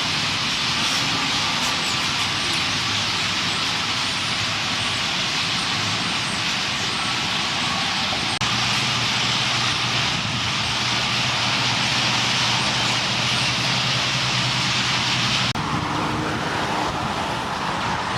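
Dense, continuous chatter of a huge flock of purple martins gathering at a roost, a loud unbroken din of many small calls. A steady low hum joins it about eight seconds in and drops out about seven seconds later.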